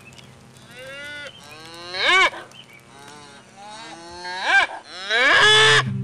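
A farm animal calling about five times, each call rising and then falling in pitch, the last one the longest, over faint background music.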